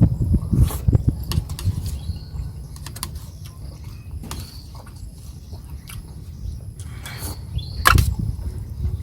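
Eating close to the microphone: chewing with irregular low mouth sounds, and scattered sharp clicks of cutlery on a plate. There is a short swish about seven seconds in.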